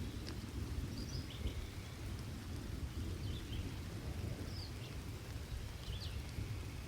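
Steady rain with a low, continuous rumble of thunder. Short high bird chirps come every second or so.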